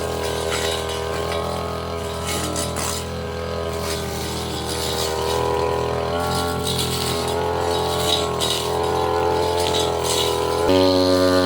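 Petrol brush cutter engine running steadily while its metal blade cuts through undergrowth, with scattered clicks. About a second before the end the engine pitch jumps sharply up as it is revved.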